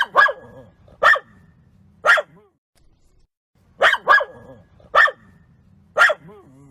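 Dog barking: two runs of four sharp barks with a pause of about a second and a half between them.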